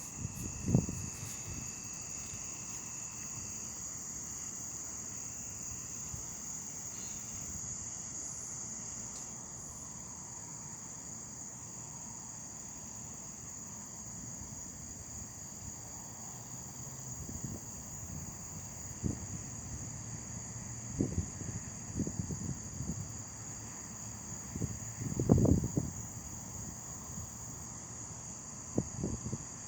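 Crickets chirring in a steady, high-pitched chorus. Several short low thumps break through, the loudest about 25 seconds in.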